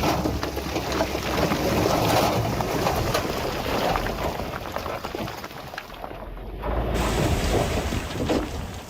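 Heavy diesel machinery running, with a dense rushing noise and scattered sharp knocks over it; the rush dips for a second or two past the middle.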